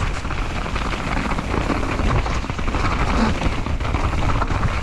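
Mountain bike descent heard from a GoPro: a steady rushing, rumbling noise of wind buffeting the camera microphone together with the tyres and frame rattling over rough trail.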